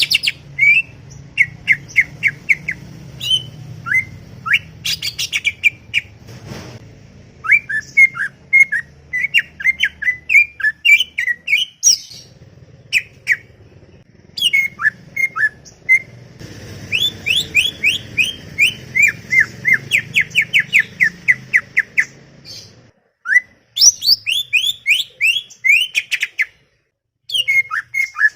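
Cucak ijo (green leafbird) singing a fast, chattering song: quick runs of short rising chirps and trills with brief pauses, over a low steady hum that stops near the end.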